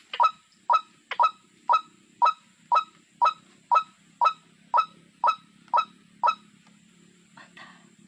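A bird gives a rapid series of short, sharp calls, about two a second. The calls stop about six seconds in, and one fainter call follows.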